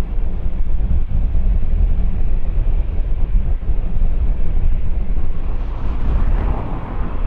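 Airliner jet engines rumbling steadily, mixed with wind buffeting the microphone. A brief swell of hiss comes about six seconds in.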